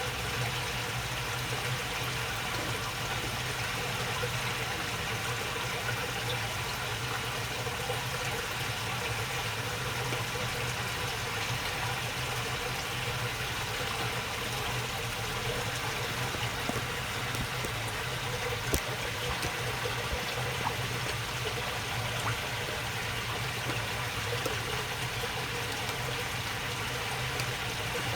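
Water flowing steadily along a narrow channel, a continuous babbling murmur. A single sharp click sounds about two-thirds of the way through.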